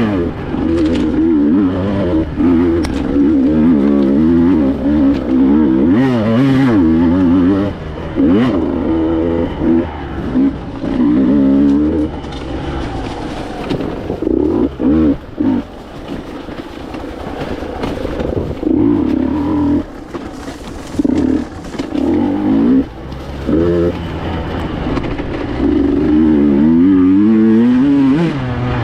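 Two-stroke enduro motorcycle engine being ridden, revving up and falling off again and again with the throttle, with a few short dips where the throttle is shut.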